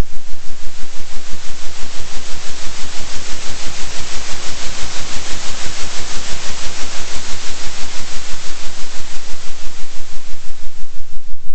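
Synthesized noise oscillating in loudness about three times a second, over a steady low hum. The hiss grows brighter toward the middle.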